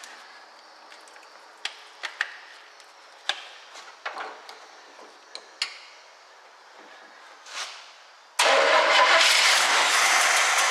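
A 1967 Chevy Camaro engine is cranked and briefly fires on a little gas poured into the carburettor: a sudden loud burst of engine noise about eight seconds in, lasting about two seconds. Before it there are only a few light clicks and knocks from handling.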